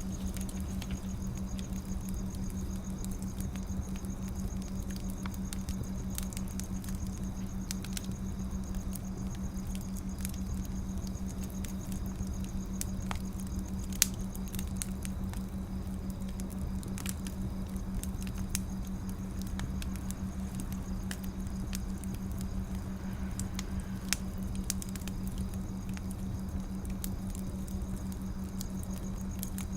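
Wood fire burning, with scattered crackles and pops over a steady low rumble and hum; one sharper pop about halfway through.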